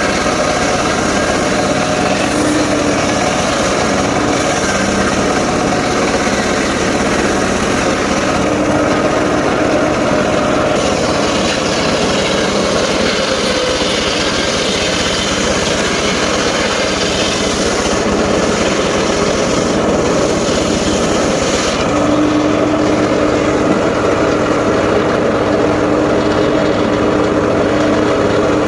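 Engine-driven portable circular sawmill running continuously, its blade sawing through logs. The sound shifts about a third of the way in and again near the end, where a steady low hum comes to the fore.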